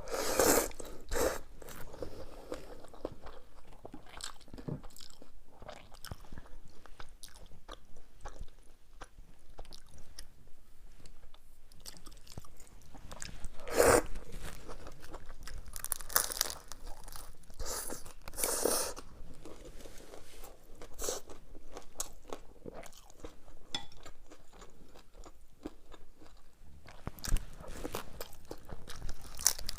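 Close-miked eating: bites and chewing with crunching, coming in irregular bursts. The loudest bites fall about half a second in, around the middle, and near the end.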